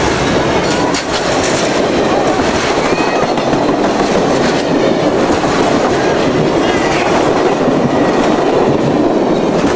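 A train rolling by on the mainline, its wheels clattering steadily over the rails.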